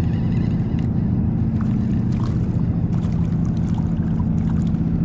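A steady low motor hum aboard a small fishing skiff, holding one even pitch, with a few faint clicks and taps scattered over it.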